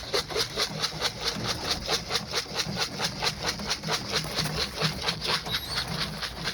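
Rapid, even rattling of about five shakes a second: pigeon feed shaken in a container to call young pigeons down to eat.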